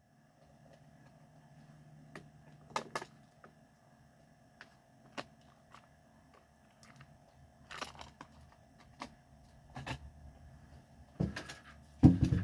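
Faint room sounds after the music stops: scattered small clicks and knocks, a few a couple of seconds apart, over a steady low hum.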